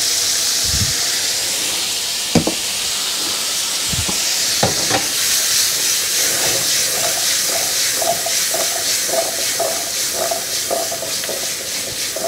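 Sliced carrots frying in melted butter in a hot skillet, a steady sizzle. A few knocks break it in the first half, and from about halfway there is a run of short squeaks, two or three a second.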